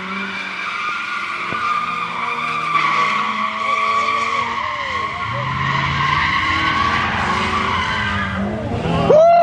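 Car tires squealing in one long, continuous screech as a car slides through a burnout or donuts, with the engine running underneath and getting louder in the second half. A loud shout cuts in near the end.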